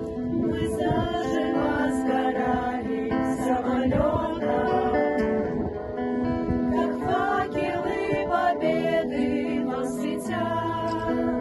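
A children's vocal ensemble singing a ballad together over instrumental accompaniment.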